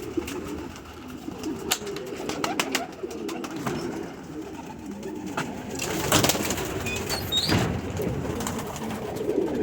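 A loft full of domestic pigeons cooing, low wavering calls overlapping steadily. Scattered sharp clicks and knocks come through, with two brief rustling bursts about six and seven and a half seconds in.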